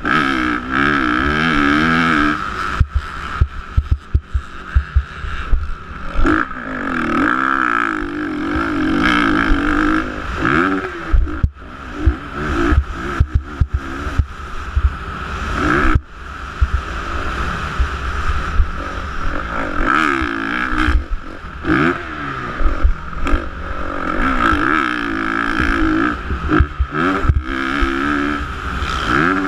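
Motocross dirt bike engine revving up and down repeatedly as it races over the course, with many short low thumps and some clatter through it.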